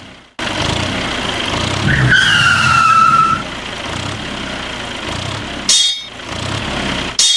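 Small model diesel engine running steadily, the sound cut off briefly a few times. About two seconds in, a loud, high whistle-like tone falls slowly in pitch over a second and a half.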